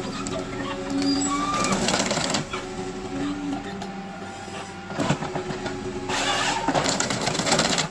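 Heavy forestry machine running, its engine and hydraulics giving a steady hum. Three louder, noisier surges of machine work come about two seconds in, around five seconds, and over the last two seconds.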